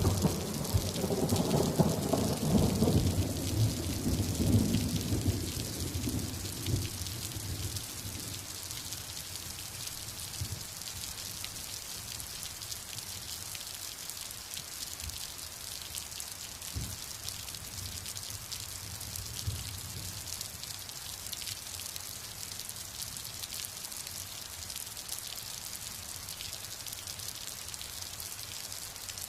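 Steady heavy rain with a rolling thunder rumble in the first few seconds that fades away, leaving the rain hissing on its own with a few faint distant thumps of thunder.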